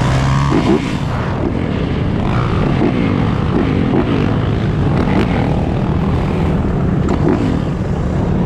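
Many dirt bike and ATV engines running together, with overlapping revs rising and falling.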